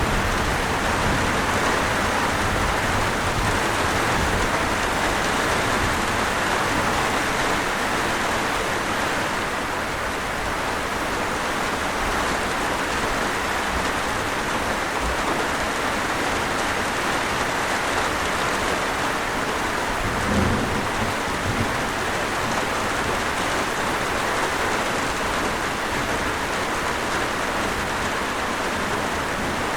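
Steady rain falling, an even hiss of many drops on a surface. A brief low thump sounds about two-thirds of the way through.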